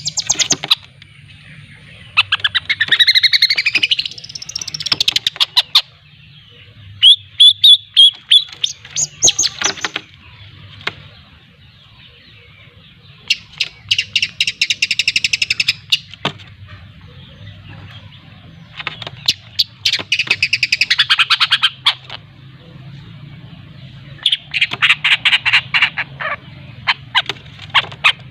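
Young long-tailed shrike (cendet) chattering in about five bouts of rapid, harsh, rattling notes, some with rising-and-falling sweeps. This is the 'ngriwik' twittering of a juvenile learning to sing.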